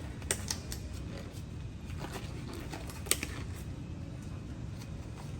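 Scattered light clicks and knocks of hand work on a Honda CRF150F dirt bike's air filter box, the sharpest about a third of a second in and again about three seconds in, over a steady low hum.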